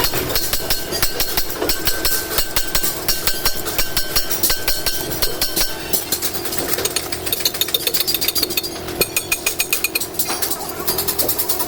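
Rapid, repeated metallic knocks, several a second, like metal being struck over and over in truck hub work.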